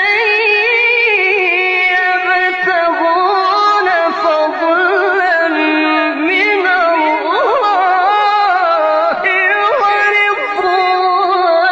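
Middle Eastern-style melodic vocal performance: a voice singing or chanting long held notes with wavering ornaments, running without a break.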